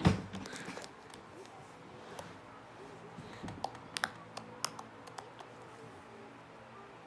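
Handling slime: one knock, then sparse small clicks and pops as the slime is worked in the hands, over a faint steady hum.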